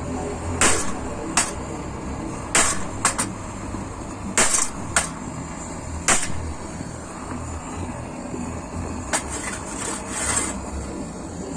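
Hammer striking a warped metal fire-pit grate to beat it flat, about ten sharp metallic blows at uneven spacing, some in quick pairs.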